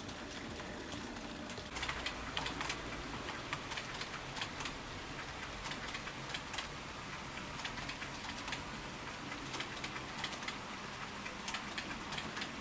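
Model train running on the layout track: a steady low running noise with many irregular light clicks that start about two seconds in.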